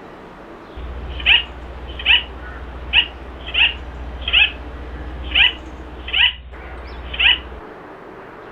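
A bird calling repeatedly: eight short calls, each falling sharply in pitch, about one every 0.8 s, over a steady low hum.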